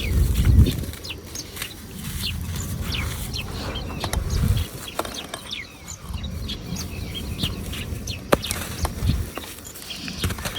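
Dry red dirt crumbling and dropping onto wet paste in a steel tub, a low crunching rumble that swells about half a second in and again around four and a half seconds in. Birds chirp in the background throughout.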